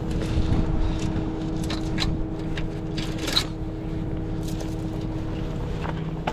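Tow truck engine running steadily with a constant hum, and a few short metallic clinks and knocks from the hookup.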